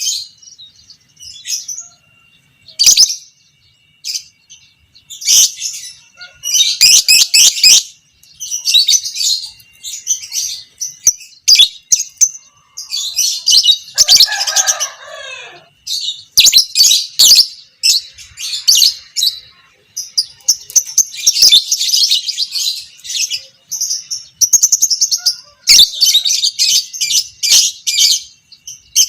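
Lovebird chattering in its long 'ngekek' song: shrill, rapid trills in repeated bursts of a second or two with short breaks between. About halfway through comes a lower, falling call.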